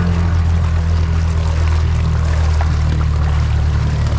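An ATV engine running steadily at an even pitch while the machine sits stuck in deep water and mud, its rider trying to drive it out.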